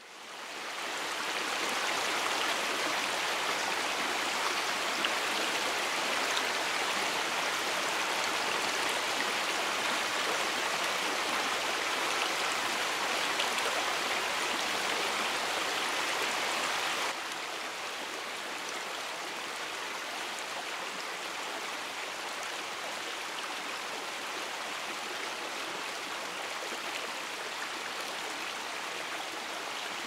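Steady rushing of a stream flowing over rocks, an even hiss with no tones in it. It swells in over the first second or two and drops slightly in level a little past halfway.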